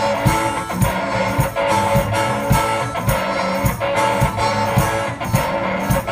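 One-man band playing an instrumental passage: strummed guitar over a steady low beat.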